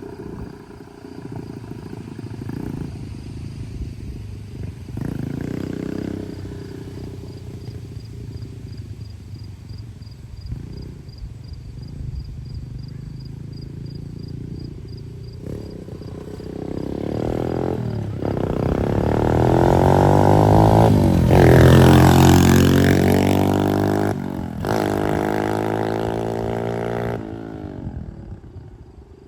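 A small 140cc dirt bike engine, first faint in the distance, then revving up through the gears as it comes closer. It is loudest as it passes about 22 seconds in, its pitch dropping as it goes by, and it runs on more steadily before fading near the end.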